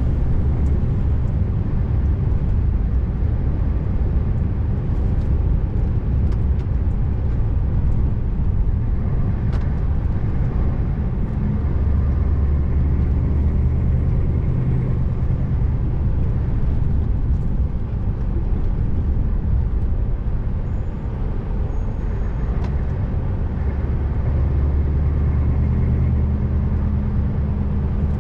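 A Scania R590's V8 diesel engine running while the truck drives, over steady road and tyre noise. The engine's low drone grows stronger for a few seconds around the middle and again near the end.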